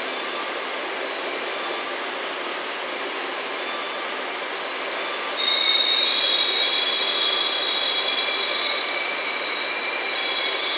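Trains moving slowly through a covered station platform: a steady rolling rumble, then about five seconds in a louder, high-pitched squeal of several steady tones from train wheels on the rails that carries on to the end.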